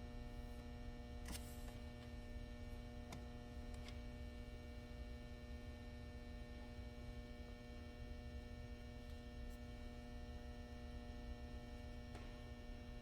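Faint steady electrical hum with a low rumble beneath it, and a few faint clicks.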